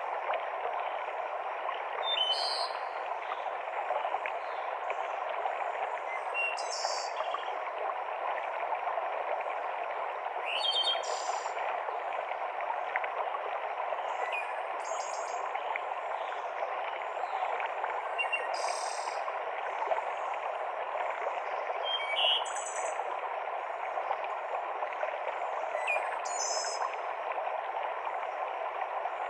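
Mountain stream cascading steadily through the forest, with a songbird repeating a short, high-pitched call about every four seconds.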